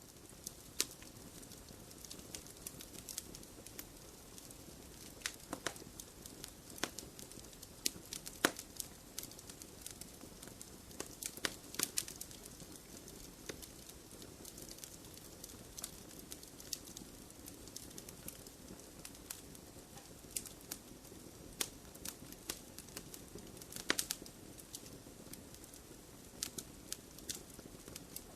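Wood fire in a fireplace crackling: irregular sharp pops and snaps, a few of them louder, over a steady soft hiss of burning.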